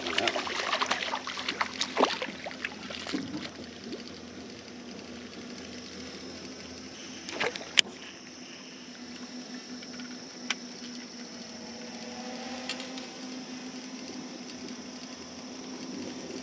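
Water splashing and lapping at the side of a small fishing boat, busiest in the first few seconds, over a steady low hum, with a couple of sharp clicks later on.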